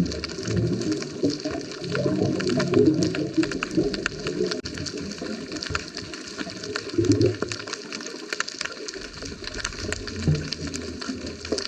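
Underwater sound through a camera housing: a scuba diver's exhaled bubbles rumble and gurgle in uneven bursts, easing off for a few seconds past the middle, over a steady crackle of small clicks.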